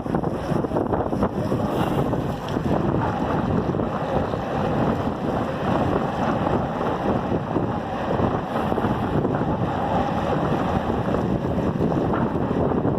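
Steady wind buffeting the microphone of a camera carried on a moving road bike, a dense rumbling rush that holds level throughout.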